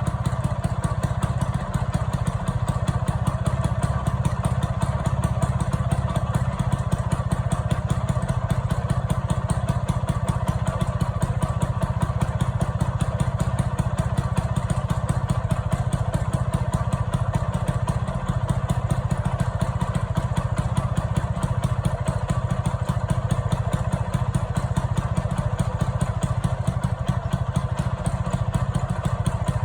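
1964 Vespa scooter's two-stroke single-cylinder engine idling steadily, with an even firing rhythm that neither revs up nor falls away.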